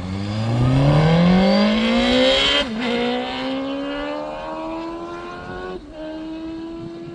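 Suzuki GSX-R (Gixxer) sport bike's inline-four accelerating hard, its pitch climbing steadily, with upshifts about two and a half seconds in and again near six seconds, sounding healthy as it pulls away.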